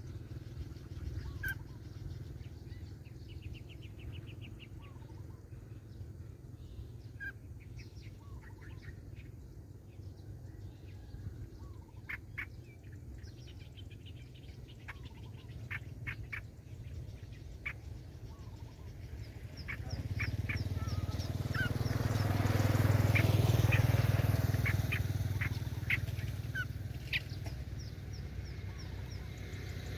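Small birds chirping and calling in short scattered notes, with a quick ticking trill a few seconds in. About two-thirds of the way through, a low rumble swells up, becomes the loudest sound, and fades again.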